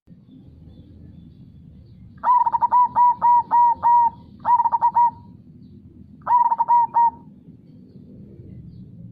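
Zebra dove (perkutut) singing its cooing song: three phrases of quick, clipped coo notes, a long run of about six notes followed by two short bursts. Under them runs a low, steady background wash.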